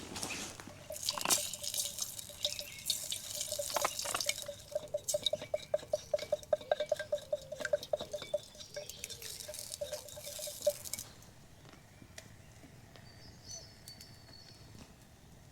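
Water pouring and gurgling in quick pulses, stopping about eleven seconds in.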